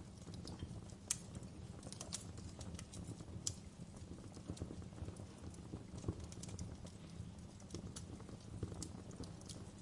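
Wood fire crackling in a stone fireplace: irregular sharp pops and snaps, a few louder ones standing out, over a steady low rumble.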